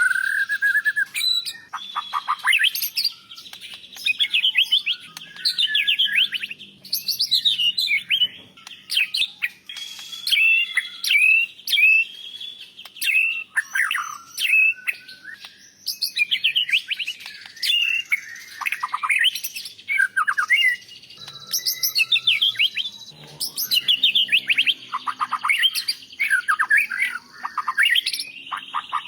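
White-rumped shama (murai batu) singing: loud phrases of rapid, varied whistles and chirps, each a second or two long, separated by short pauses, with phrases copied from other songbirds worked into the song.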